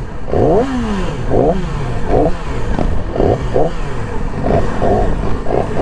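Several motorcycle engines running and being revved, their pitch rising and falling over and over.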